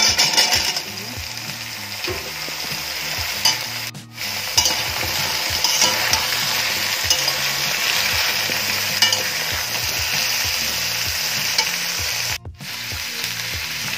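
Chopped drumsticks, potato and raw banana dropped into hot mustard oil and onion paste in a pan, sizzling loudest at first, then frying steadily as a spatula stirs them. The sizzle drops out briefly twice, about four seconds in and near the end.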